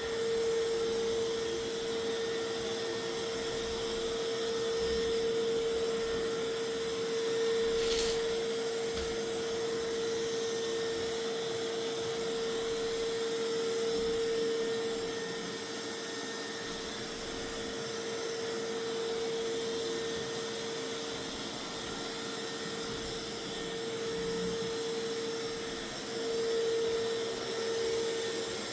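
Mova Z60 robot vacuum running on a cleaning pass: an even suction hiss with a steady motor whine. A single sharp tick comes about eight seconds in.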